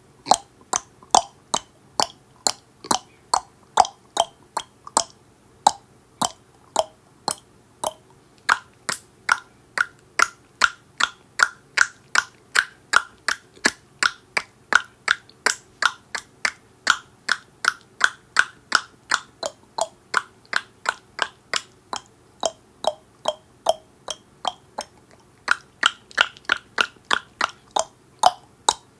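A person clicking their tongue over and over, about two to three sharp clicks a second. The pitch of the clicks shifts as the mouth shape changes, lower at first and higher through the middle stretch.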